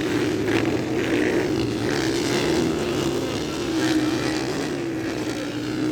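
Several 125–160 cc motocross motorcycles racing around the track, their engines running together as a steady, slightly wavering drone.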